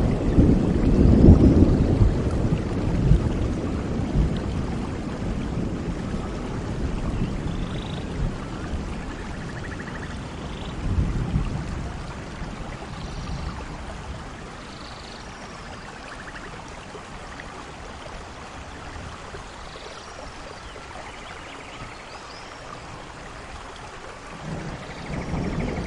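Thunderstorm with steady rain: a roll of thunder dies away over the first few seconds, a short rumble comes about halfway through, and a new roll of thunder builds near the end.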